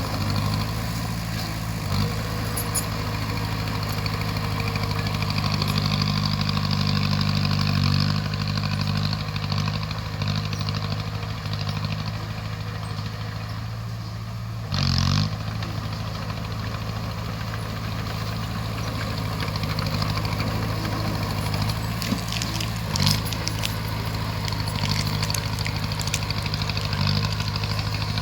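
Crawler bulldozer's diesel engine running steadily under working load, pulling a little harder for a few seconds early on. About halfway through comes a short, loud burst of noise, and a few sharp knocks follow near the end.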